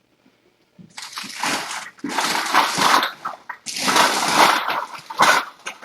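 Several long bursts of rustling, scraping noise, starting about a second in and stopping shortly before the end.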